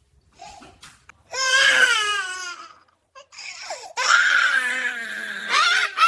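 Baby-like crying: two long, wavering wails. The first starts a little over a second in; the second runs from about four seconds in.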